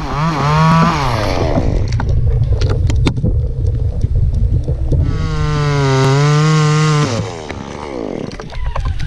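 Chainsaw revving up and down, with a run of sharp clicks in the middle. It is held at full throttle for about two seconds near the end, then drops back.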